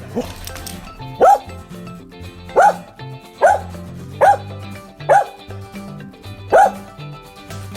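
Dog barking: a series of short single barks, about one a second, over background music.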